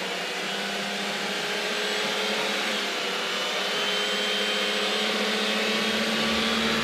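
Car engine running at high revs with a steady whine, its pitch creeping slowly upward as the car accelerates.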